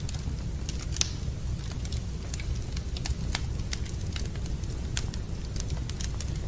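Wood fire burning in a fireplace: irregular sharp crackles and pops over a steady low rumble, with one louder pop about a second in.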